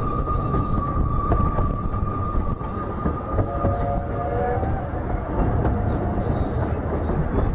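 Heritage railway train running on the rails, a constant low rumble with a steady high wheel squeal that fades out about halfway, and a brief lower squeal of wheels around the middle.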